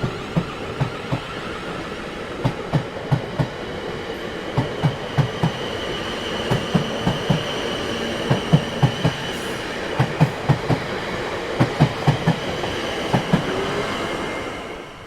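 A train running past on jointed track: its wheels clatter over the rail joints in quick groups of two and four knocks, one group as each carriage goes by. Under the knocks are a steady running noise and a high steady whine from the wheels. The sound falls away quickly near the end.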